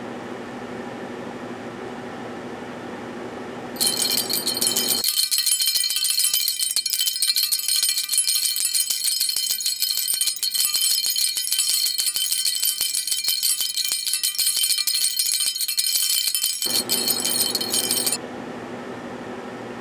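A microwave oven runs with a steady hum. About four seconds in, a loud, dense high-pitched jingling rattle like shaken bells starts, and the hum drops out beneath it. The rattle stops abruptly about four-fifths of the way through and the microwave hum comes back.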